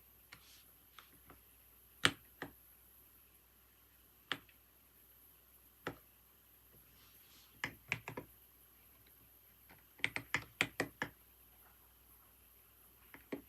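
Computer keyboard keys struck sparsely and irregularly: single taps with pauses, a short run of four or five quick keystrokes about two-thirds of the way in, and two more taps near the end.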